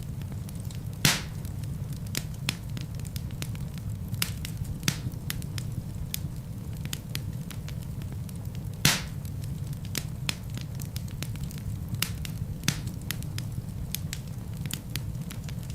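Wood fire burning in a fireplace: a steady low rumble of flames with frequent crackles, and louder pops about a second in and about nine seconds in.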